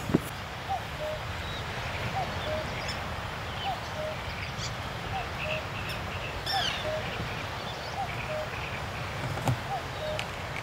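A bird repeating a two-note call, the second note lower, about once every second and a half, with a few brief higher chirps from other birds over a steady rushing background.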